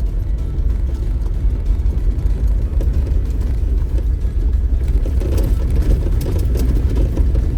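Off-road vehicle driving over a rough dirt trail: a steady low rumble of engine and tyres, with light rattles and knocks from about five seconds in.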